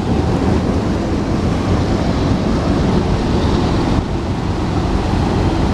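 Freight train of empty autorack cars rolling past close by, a steady rumble of wheels on the rails.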